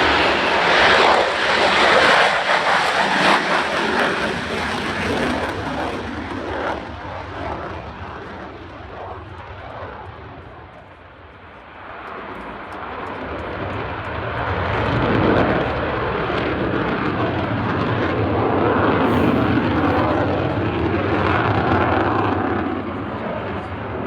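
Jet engine of an F-35A Lightning II flying display passes. It is loud at first and fades away over about ten seconds, then swells again a few seconds later and stays loud.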